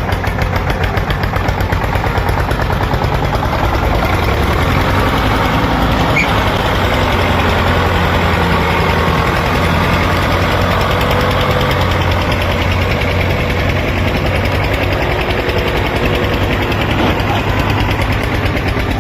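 Diesel tractor engine running steadily with a fast, even chugging.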